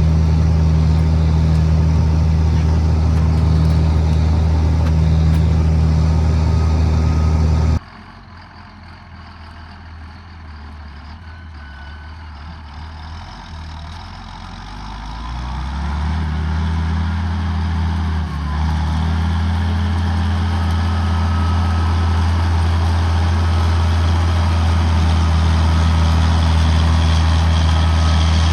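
John Deere 7800 tractor's diesel engine running steadily under load, pulling a disc harrow. About 8 s in the sound drops off suddenly to a distant engine that grows louder as the tractor approaches, and it runs loud and steady again from about 16 s.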